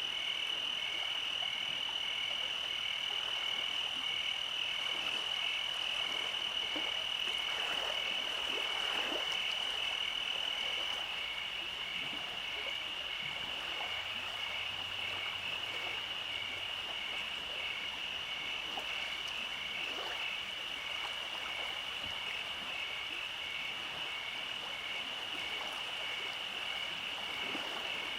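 Night chorus of frogs: a steady high-pitched trill with a second, regularly pulsing trill just below it. Two fainter, higher steady tones drop out about eleven seconds in.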